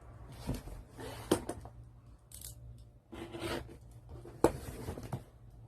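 Laptop's cardboard shipping box being opened: scissors snipping at the packing, with scraping and rustling of cardboard and a few sharp clicks.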